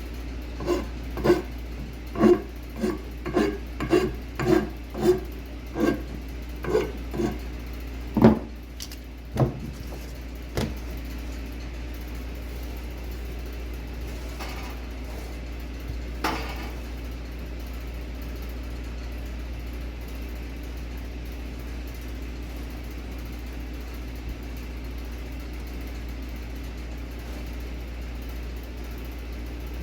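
A run of about fifteen sharp knocks, one or two a second, each ringing briefly, over the first ten seconds or so; one fainter knock follows a few seconds later, and then only a steady low hum is left.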